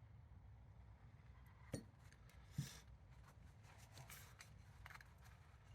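Quiet handling of motorcycle gearbox parts on the bench: two light knocks about two and two and a half seconds in, brief soft rubbing, scattered small clicks and a sharp click at the very end.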